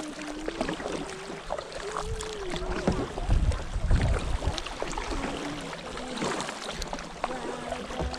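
Kayak paddling on calm river water: paddle strokes and water lapping, with a low rumble about three seconds in.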